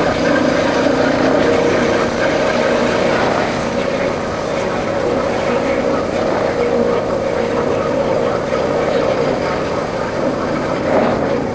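Royal Enfield Bullet's single-cylinder four-stroke engine running steadily while the motorcycle is ridden.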